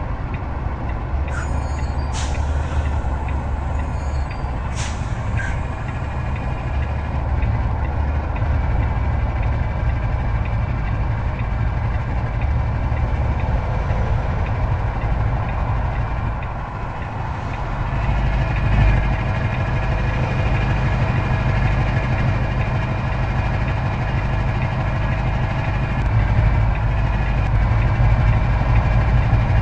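Heavy truck's engine running steadily under way, with a few short, sharp hissing sounds in the first five seconds and the engine note shifting a little past halfway.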